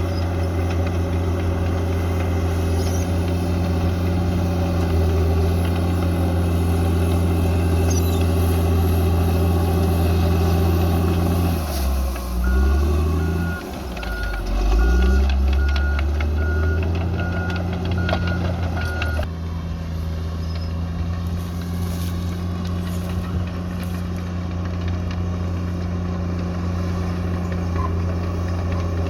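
Bulldozer diesel engine running steadily. A little under halfway through, the engine note dips and rises for several seconds while a reversing alarm beeps at an even pace, then the steady running resumes.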